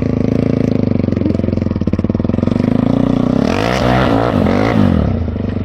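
Quad bike engine running steadily. About three and a half seconds in, its pitch swings up and down with a rough hiss for about a second and a half as it revs through a doughnut, then it settles back to a steady run.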